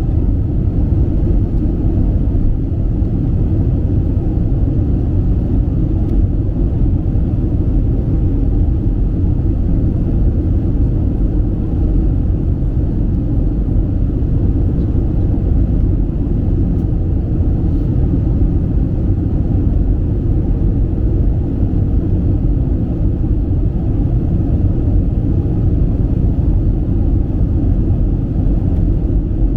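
Steady low rumble of an Airbus A320 cabin in flight, engine and airflow noise with a faint steady hum running through it.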